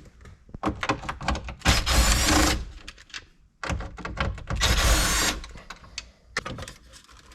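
Cordless drill-driver backing out dashboard trim-panel screws in two short runs, with clicks and knocks of the plastic panels and the tool being handled between them.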